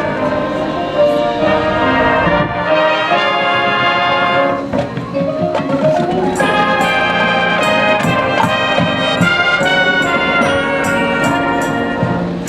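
High school marching band playing, its brass section of trumpets and trombones sounding held chords. From about six and a half seconds in, sharp percussion strikes join in a steady beat under the brass.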